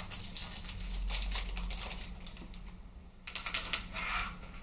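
Light clicks and rattles of plastic airsoft rifle parts being handled and fitted together as the barrel unit is seated in the body, with a run of clicks early on and another cluster about three and a half seconds in.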